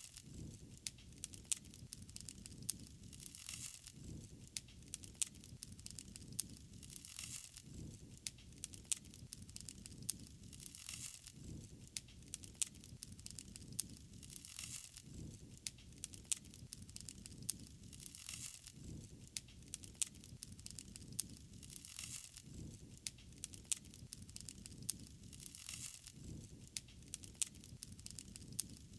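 Wood fire burning, crackling with frequent sharp pops over a low steady rumble, and a hiss that swells roughly every four seconds.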